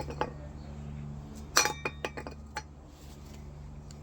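Metal tools and engine parts clinking together: a few sharp clinks with short metallic ringing, the busiest run about one and a half to two and a half seconds in, over a steady low hum.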